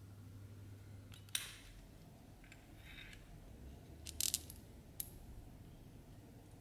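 A few sharp clicks and light clinks from small hard objects being handled: one about a second in, a quick cluster of three near four seconds, and one more a little later. A faint low hum stops with the first click.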